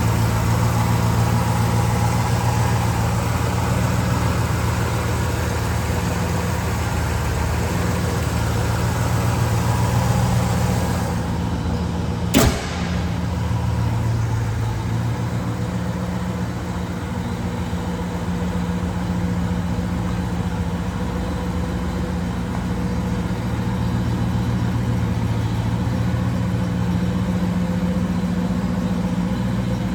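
1968 Pontiac Firebird's engine idling steadily after a cold start, with one sharp click about twelve seconds in.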